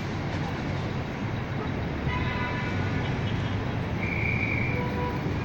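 Busy street traffic rumbling steadily, with short car-horn toots about two seconds in and a longer horn note about four seconds in.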